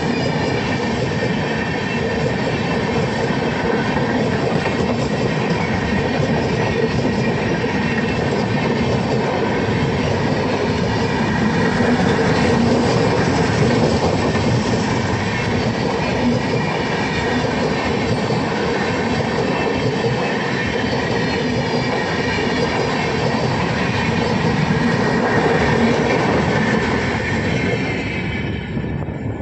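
Indian Railways express train running past at speed: a steady, loud rumble of coach wheels on the rails with clickety-clack, which drops away right at the end.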